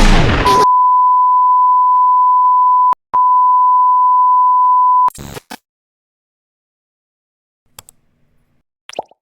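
Electronic beep: one steady pure tone, loud and unchanging, lasting about four and a half seconds with a brief break near three seconds in. It follows the last moment of background music, and a few faint clicks come near the end.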